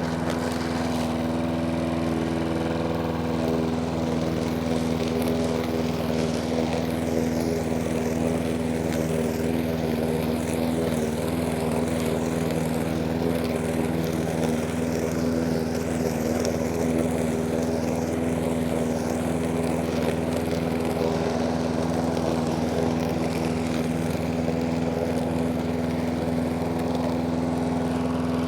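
Sovereign petrol push lawnmower's Briggs & Stratton engine running steadily at near full throttle while cutting grass.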